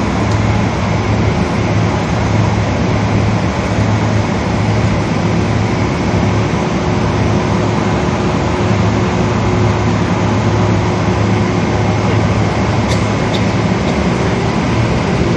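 Steady cabin noise inside a Boeing 777 airliner: the jet engines and rushing air as a constant loud drone with a low hum and a faint steady tone.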